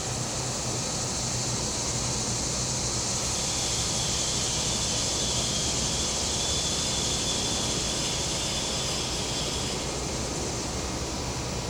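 Steady low hum of a gas-powered generator under a high insect buzz that swells from about two seconds in and fades near the end.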